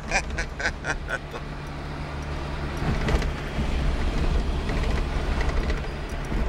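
Fiat Panda's engine running as the car drives along, heard from inside the cabin: a steady low drone that grows louder a few seconds in as the car picks up speed.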